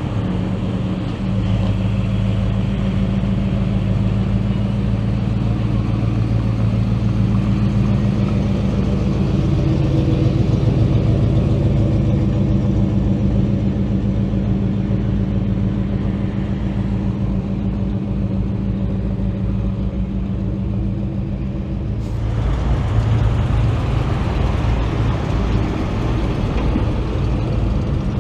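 Car engine idling steadily, a low, even rumble. About three-quarters of the way through, a louder rush of noise across the upper range joins in.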